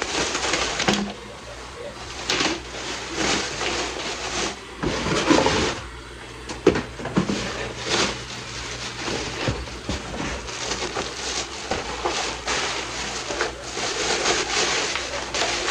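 A new electric fan being unpacked from its box, with the cardboard and plastic packaging being handled: irregular rustling, scraping and knocking.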